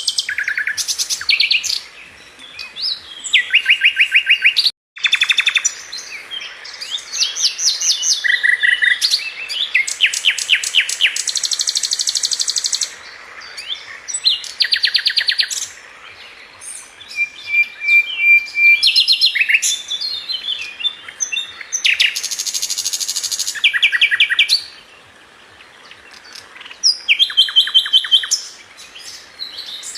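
A sikatan London flycatcher sings a varied song of high chirps and whistles broken up by fast rattling trills of repeated notes, phrase after phrase with short pauses between them. The sound cuts out for a moment a little before 5 s.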